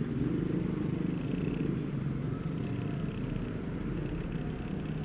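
Honda Supra X motorcycle engine running steadily with road noise, amid heavy truck traffic.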